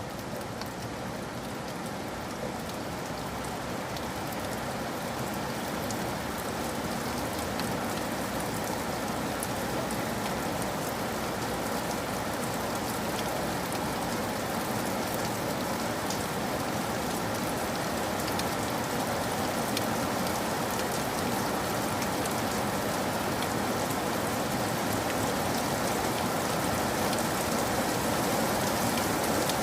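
Steady rain falling, with the taps of individual drops heard through the hiss, slowly growing louder.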